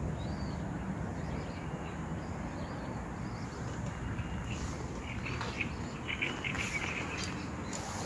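Birds singing and calling. The calls grow busier from about halfway through, over a steady low background rumble.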